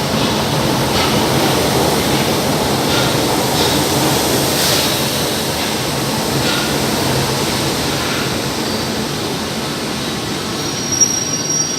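São Paulo Metro train running on the rails, a steady rumble of wheels and cars that eases slightly towards the end. A sharp click comes near the end, as a high wheel squeal begins.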